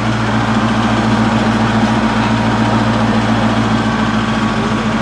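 A car engine idling steadily, an even low hum that does not change.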